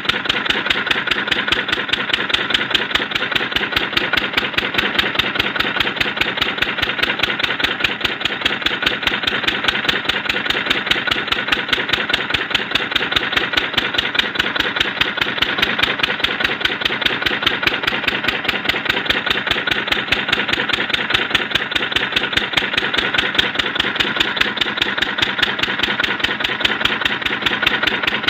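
10 hp Lister-type single-cylinder diesel engine running steadily, its firing strokes an even, rapid beat with no change in speed.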